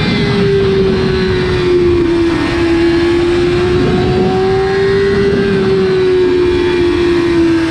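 Kawasaki ZX-6R (2007–2008) 599 cc inline-four engine running at high revs under way, its pitch holding nearly steady, sagging a little and rising again, over a steady rush of wind and road noise.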